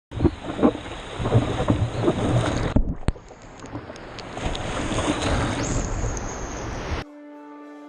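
Wind buffeting the microphone over the rush of ocean surf, in two stretches with an abrupt break about three seconds in. Near the end it stops suddenly and music with held tones comes in.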